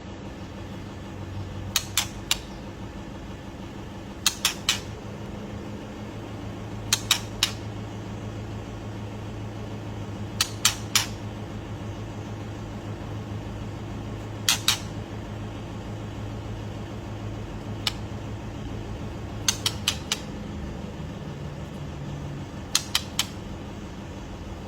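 Young white-rumped shama giving short, sharp clicking calls in groups of two or three every few seconds, over a steady low hum.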